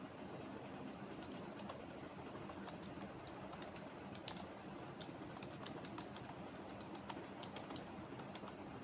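Typing on a computer keyboard: irregular key clicks, starting about a second in, over a steady low background rumble.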